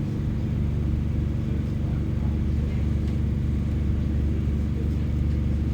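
Diesel engine of a Class 144 Pacer railbus running steadily, a low even drone.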